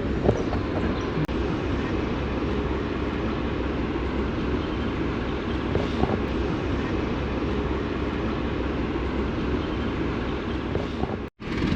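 Steady rumble of a passenger train coach running along the line, heard from on board. It cuts out abruptly for an instant near the end.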